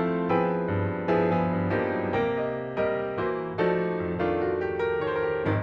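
Background piano music: a gentle melody of single struck notes about two a second, each ringing and fading before the next.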